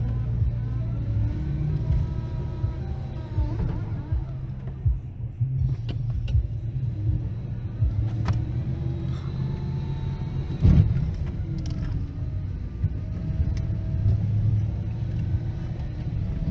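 Motor vehicle running, a steady low engine and road rumble with the engine pitch slowly rising and falling. One loud knock comes a little past the middle.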